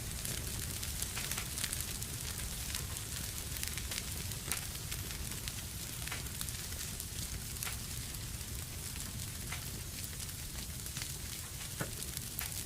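Wood fire burning in a fireplace: a steady low rumble and hiss of the flames with frequent sharp, irregular crackles and pops.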